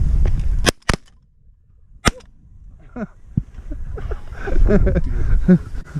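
Three shotgun blasts at a snow goose: two in quick succession about a second in, then a third about a second later.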